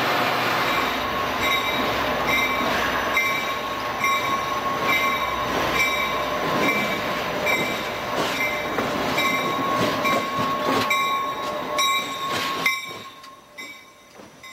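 Passenger train rolling past along a station platform: its wheels squeal in a steady high tone over the running noise, with a higher tone pulsing about twice a second and scattered clicks. The sound drops away suddenly near the end.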